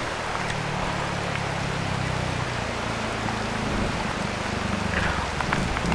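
Aprilia Tuono V4 Factory's V4 engine running steadily with a low hum that sets in about half a second in, under a steady hiss of wind and rain noise.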